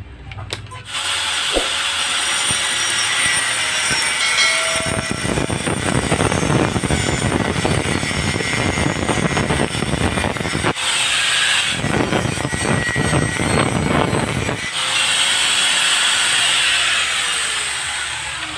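Honda CRF150's single-cylinder four-stroke engine running loud through a kalkal exhaust pipe. It is revved in two long bursts, from about five to eleven seconds in and again from twelve to fifteen, and settles back between them.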